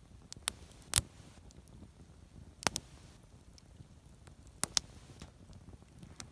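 Driftwood campfire crackling: sharp pops at irregular intervals over a low hiss, the loudest about a second in, with close pairs of pops near the middle and later.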